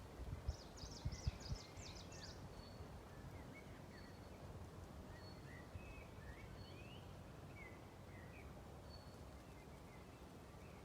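Wind in the trees, a faint steady rustle of leaves and needles, with small birds chirping throughout and a quick burst of high twittering in the first two seconds. A few low thumps of wind on the microphone come in the first second and a half.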